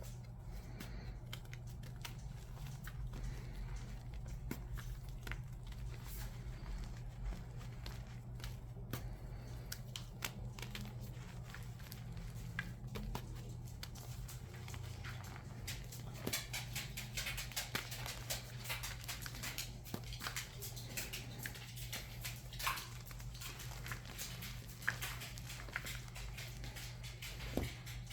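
Crunchy reforms, pressed blocks of reformed chalk, being crushed by hand: irregular crackling and snapping clicks that get denser and louder about halfway through, over a steady low hum.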